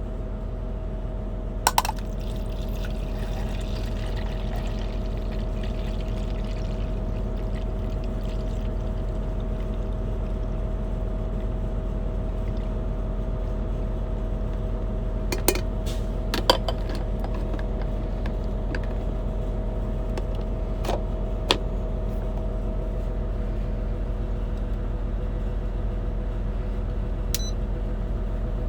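Liquid being poured, likely hot water or coffee going into a cup or brewer, with several small clicks and knocks from handling the cup. Underneath runs a steady low hum with a constant tone, typical of an idling truck engine.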